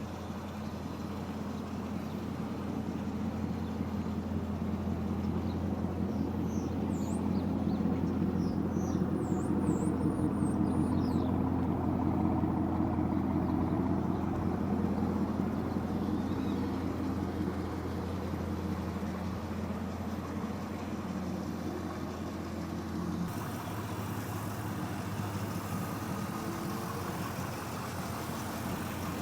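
1998 Pontiac Firebird Formula WS6's 5.7-litre LS1 V8 driving, with its single, muffler-deleted exhaust. The engine and road sound swell over roughly the first ten seconds as the car pulls, then ease to a steady cruise.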